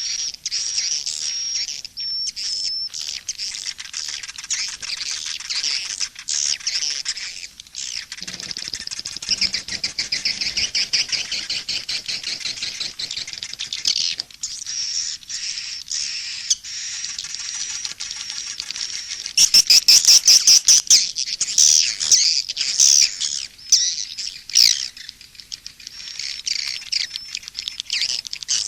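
A recorded mix of edible-nest swiftlet calls: rapid high twittering chirps, trills and clicking, with a louder, denser burst of calls about two-thirds of the way through. It is the calling track (suara panggil) that swiftlet farmers play to lure swiftlets into a nesting house.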